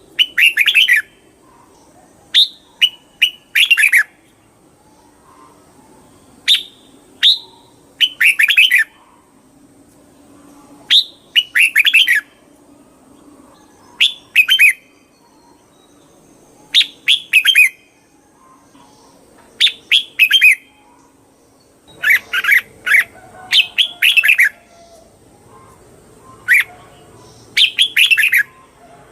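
Red-whiskered bulbul singing: short bright phrases of quick down-slurred whistled notes, repeated every second or two.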